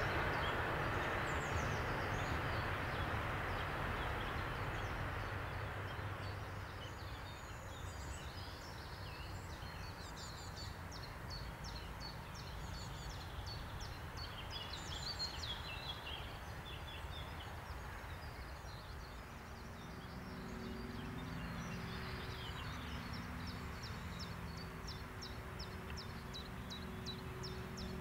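Rushing noise of a train that has just passed, fading away over the first few seconds, then small songbirds chirping. About two-thirds of the way in, a low steady hum sets in underneath.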